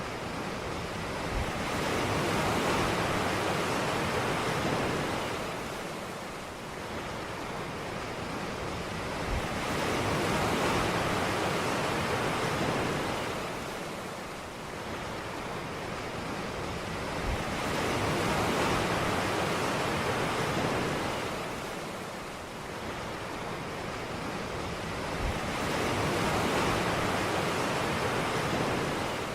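Ocean surf washing onto a beach in a slow, even rhythm, swelling and falling back about every eight seconds, four times.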